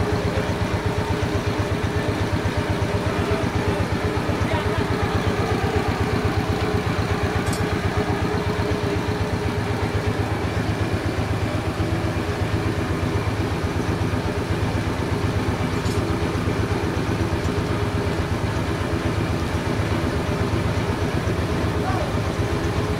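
A sawmill's engine running steadily with a fast, even pulse.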